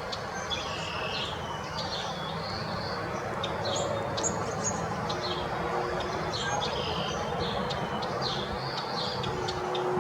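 Small backyard songbirds chirping and calling, many short high notes with a few longer ones, over the steady hum of distant highway traffic.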